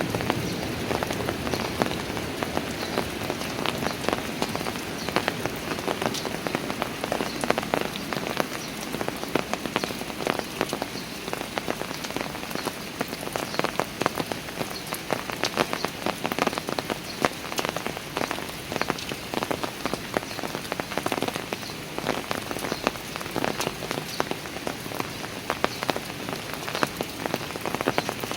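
Steady rain falling on park stairs, a dense patter of drops with many close, sharp individual splashes.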